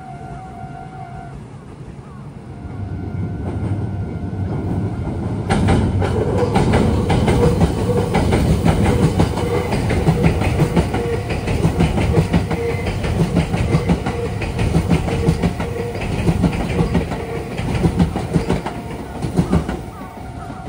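A Meitetsu electric train passing close by at a junction, its wheels clattering rhythmically over the points and rail joints. It builds from about two seconds in, turns suddenly loud about five seconds in, and drops away near the end.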